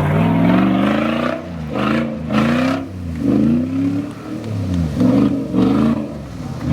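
Off-road 4x4's engine revving up and down over and over as the vehicle works its way slowly up a rocky slope.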